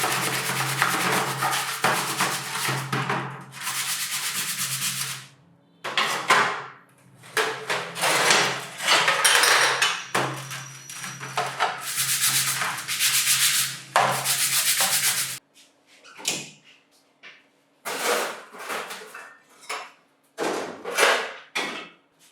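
A small electric motor runs with a steady hum while something rubs and scrapes abrasively against metal, stopping abruptly about fifteen seconds in. It is followed by several short bursts of scraping and handling.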